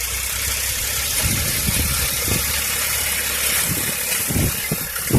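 Indo Farm 2042 tractor's diesel engine running steadily.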